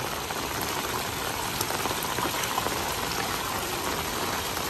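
Heavy rain falling on gravel and paving: a steady, even hiss with a few scattered louder drop taps.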